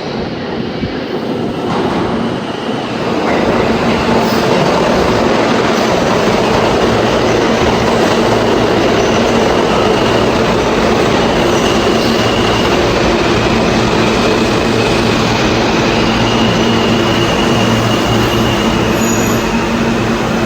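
New York City subway train running on the track: a loud, steady rumble and rattle that builds over the first few seconds and then holds, with a faint high wheel squeal coming and going.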